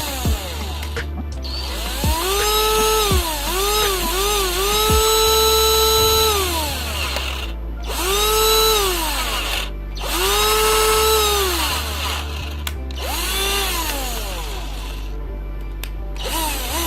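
Lifelex cordless drill motor, running on a 12 V lithium-ion pack, spun up and let down about nine times on its trigger. Its whine rises, holds and falls, with a few short blips and some runs of two seconds or so, over background music.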